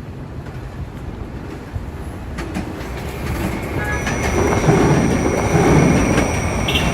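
R68A subway train running on the rails, its rumble growing louder about halfway through, with high steady squealing tones joining near the two-thirds mark.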